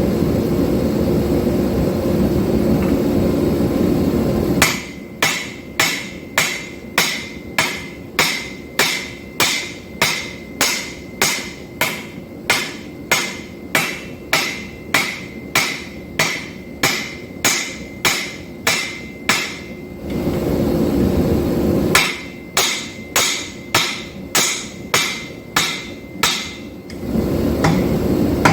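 Hand hammer striking hot 5160 steel on an anvil at an even pace of about two ringing blows a second, in two runs. Between the runs there is a steady roar: at the start, again briefly in the middle, and at the end.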